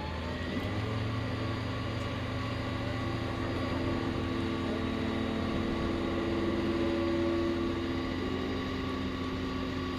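A large vehicle's engine running steadily, giving a steady drone of several tones, with a lower tone coming in about half a second in.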